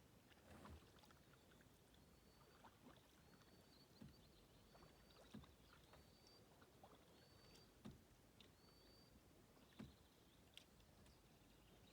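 Faint kayak paddle strokes dipping into calm water, a soft splash every second and a half or so, with a string of short high chirps above them.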